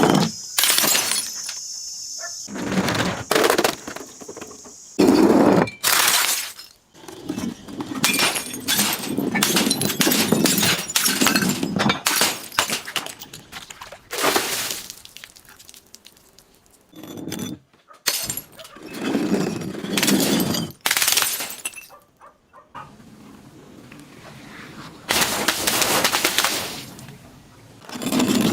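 Glass bottles being crushed and breaking, in repeated crunching bursts with short pauses between.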